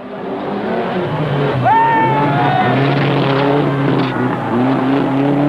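Rally car engine running hard, with a sharp rise in pitch about a second and a half in and a few short dips in the engine note.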